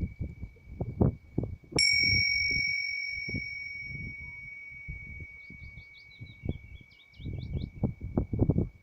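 A bell is struck once, about two seconds in, and rings on with a clear, slowly fading tone for several seconds. Short bird chirps come through the ringing near the middle.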